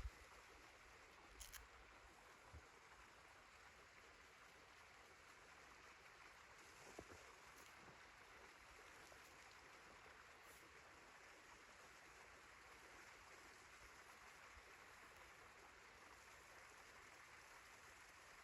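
Near silence: a faint, steady hiss with a few soft ticks.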